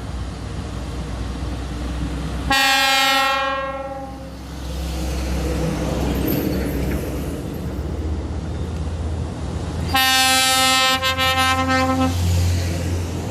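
Heavy truck's air horn sounding twice: a blast of about a second, then a longer one of about two seconds that stutters near its end. Under it the trucks' engines run with a steady low rumble.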